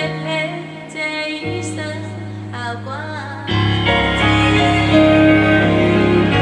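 A woman singing a slow, tender ballad over piano-led accompaniment, her voice wavering with vibrato; about halfway through, the backing swells louder and fuller.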